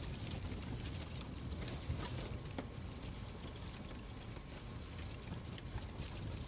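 Fireplace crackling: a steady low rumble and hiss with scattered, irregular pops and snaps.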